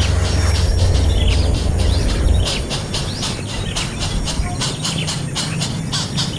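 Small birds giving rapid, short, high chirps over a low rumble that eases about two and a half seconds in.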